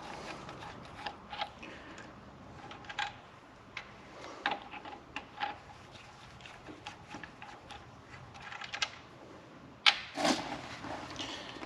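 Scattered metallic clinks and taps of hand tools and nuts being handled on a stripped-down engine block, with a louder knock about ten seconds in.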